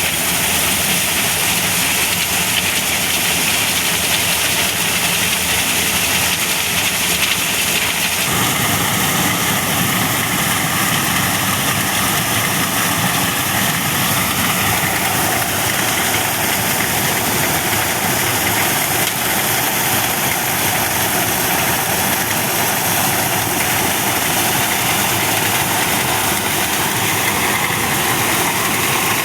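Engine-driven corn sheller (maize thresher) running steadily with a loud mechanical drone. About eight seconds in its sound changes and becomes lower and fuller.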